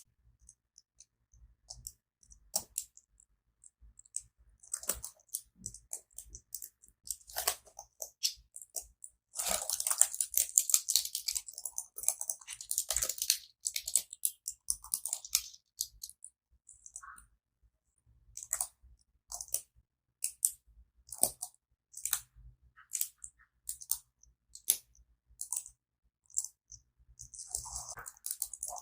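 Close-miked tapping and scratching on a keyboard: irregular sharp clicks, with a dense crackly stretch from about nine to sixteen seconds in, and no notes played.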